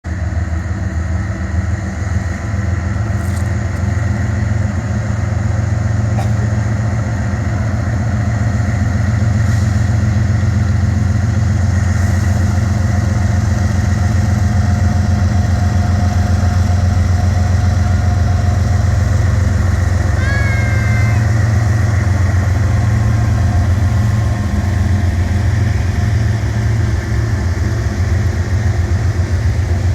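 Diesel locomotive engines running hard as a heavy train starts moving from a standstill: a loud low drone that grows louder over the first several seconds and then holds steady. A brief high squeal comes about two-thirds of the way through.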